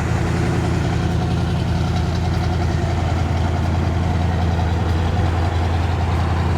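1967 Chevrolet Impala SS's 396 cubic-inch big-block V8 idling steadily, a minute or so after a cold start.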